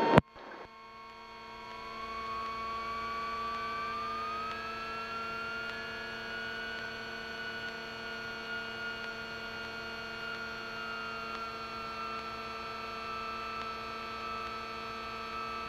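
Twin piston engines of a GA-7 Cougar running at taxi power, heard through the cockpit intercom as a steady hum. The sound grows louder over the first few seconds, and a whine rises in pitch, then eases slightly.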